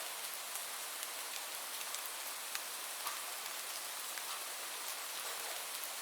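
Steady rain falling, an even hiss with individual drops ticking on a surface scattered through it.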